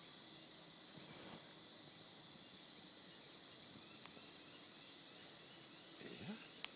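Insects chirring steadily in one high-pitched unbroken tone, with a few faint sharp clicks about four seconds in and near the end.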